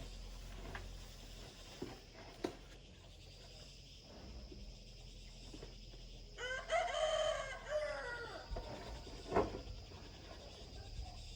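A rooster crowing once, a pitched call about a second and a half long that falls away at the end, midway through. A few faint knocks and clicks come before and after it.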